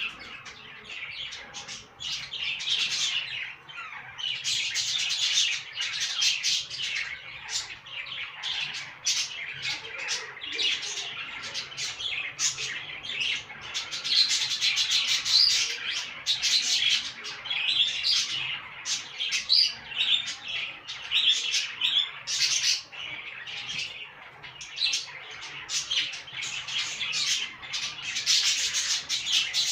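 Budgerigars chattering in a cage: a continuous run of rapid, high chirps.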